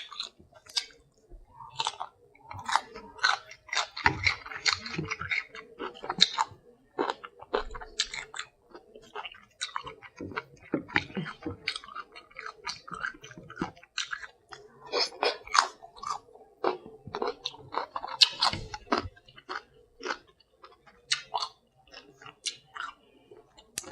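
Close-up chewing of crunchy raw cucumber: many short, irregular crunches and bites, with wet mouth sounds.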